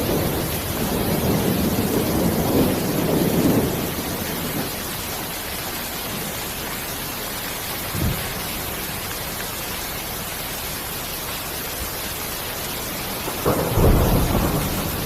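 Steady hiss of heavy rain with thunder: a low rumble rolls through the first few seconds, a short low thump comes about eight seconds in, and a sharper clap near the end rolls on as a rumble.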